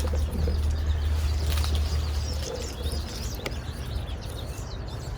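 Small birds chirping and twittering repeatedly in quick short calls, busiest in the second half, over a low rumble that fades after about two and a half seconds.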